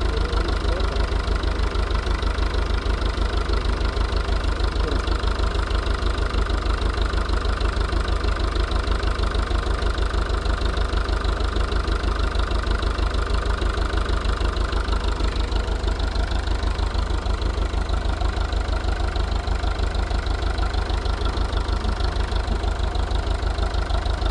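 An engine idling steadily, with a rapid, even low throb.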